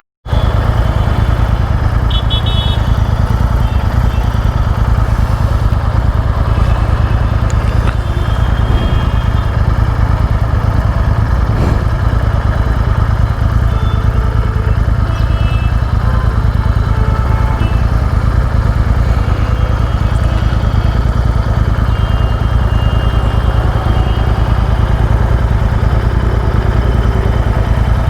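Steady low engine and road rumble of a vehicle moving through city traffic, with brief high tones now and then.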